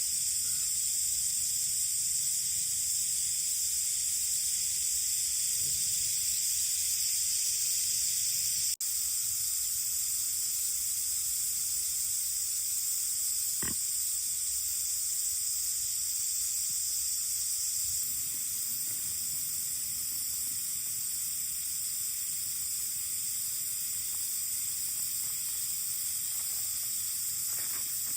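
Steady high-pitched buzzing of a summer insect chorus, with a single brief crack about fourteen seconds in.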